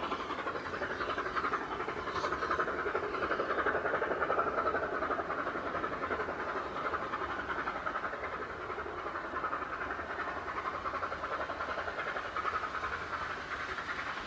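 Welsh Highland Railway narrow-gauge train running: the steady noise of wheels on rails.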